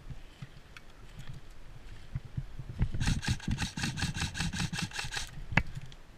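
Airsoft electric gun (AEG) firing a full-auto burst of about two seconds: a rapid, even clatter of shots over the whine of the gearbox motor, then a single sharp click. Low thumps of movement run under it.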